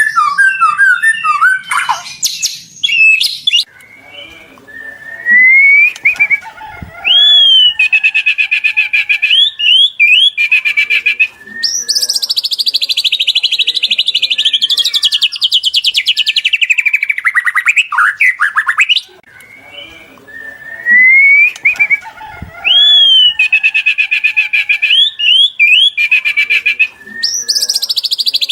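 White-rumped shama singing a long, varied song of rising whistles, fast trills and a long buzzy chattering run. The same run of phrases comes round again about halfway through, as a looped recording does.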